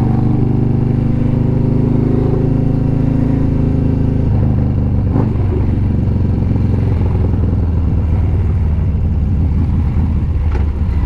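Motorcycle engine running under way, heard from the rider's microphone; its note drops about four seconds in as the bike slows.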